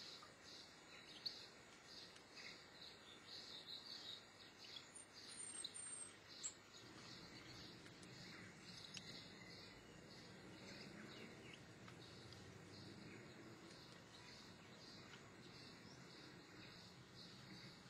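Faint quiet outdoor ambience with a quick run of small high chirps through the first half and a short high gliding chirp about five and a half seconds in, like distant small birds.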